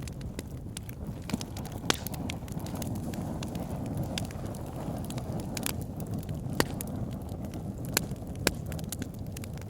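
Wood fire burning in a fireplace: a steady low rumble of flames with frequent sharp crackles and pops from the logs, a few louder snaps standing out.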